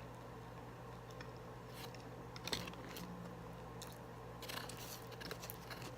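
Close-mic chewing and crunching of food, a series of short crunches and mouth clicks, the sharpest about two and a half seconds in and several more near the end.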